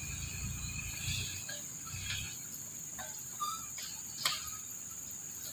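Steady high-pitched drone of insects, with a low rumble during the first two seconds and a sharp click about four seconds in.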